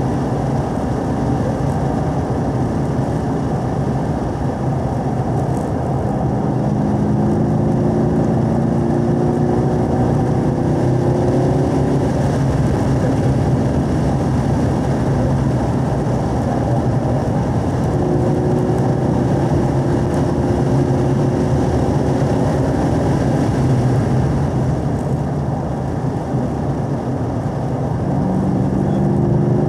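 2017 Camaro SS 1LE's 6.2-litre LT1 V8 pulling in fourth gear at around 3,000–4,000 rpm, heard from inside the cabin over steady road noise. Its pitch climbs slowly on the straights: about a quarter of the way in, again past the middle, and near the end.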